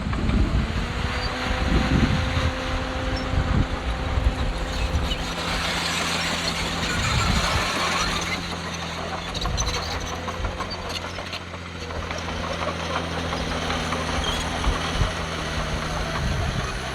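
Heavy diesel earthmoving machinery running steadily, with a few low knocks early on and a rushing, hissing noise for a few seconds in the middle.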